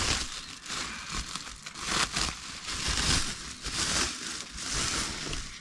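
Clothes rustling and swishing as they are handled and sorted, in a series of swishes about once a second.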